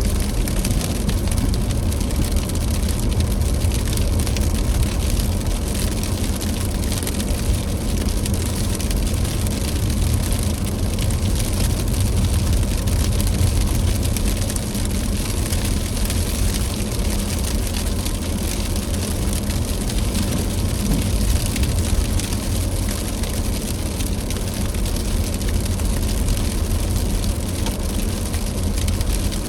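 Steady rumble of a car driving: low engine and road noise with the hiss of tyres on a wet, snowy road.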